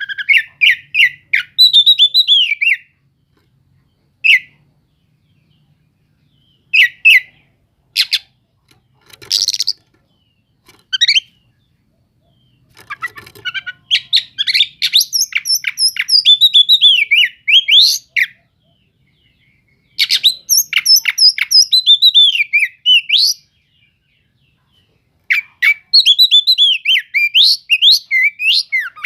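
Oriental magpie-robin (kacer) singing loudly in separate phrases of quick, varied whistles and chirps, with pauses between them. The longest phrases come about halfway through and near the end.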